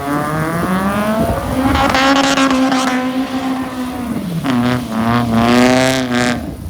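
Car engine revving hard: the pitch climbs and is held high, drops about four seconds in, then climbs and holds again, with tyres squealing during the loudest stretches.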